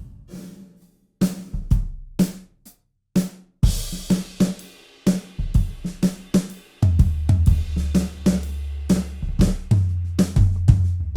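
Sampled 1970s Ludwig drum kit (the Ignis kit of the Alchemy Of Pop EZX for EZDrummer 3) playing a groove: sparse kick, snare and tom hits at first, then cymbals and hi-hat fill in about three and a half seconds in. A steady low tone joins under the drums about seven seconds in.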